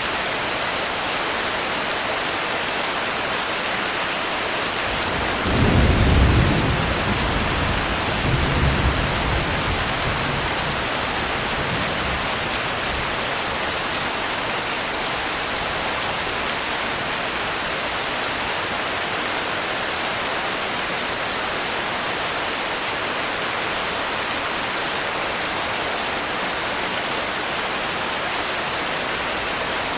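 Steady heavy rain falling, with a roll of thunder rumbling up about five seconds in and trailing off over the next several seconds.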